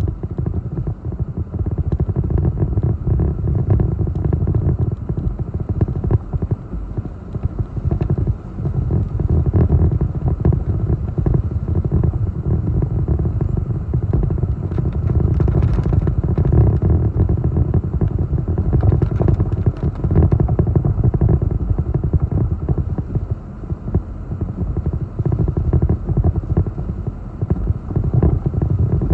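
Hurricane-force wind gusting against the microphone: a loud low rumble that rises and falls with the gusts.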